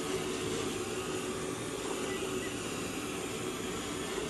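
Roomba robot vacuum running, a steady whirring hum from its suction motor and brushes with a faint constant tone.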